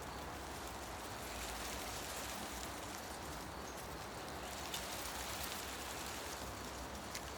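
Steady rustling of wind-stirred leaves in a forest, with a couple of faint ticks.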